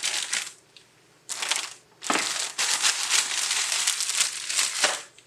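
Crinkling and rustling, as of something being crumpled or handled, in several bursts: a short one at the start, another just over a second in, and a long stretch from about two seconds in until just before the end.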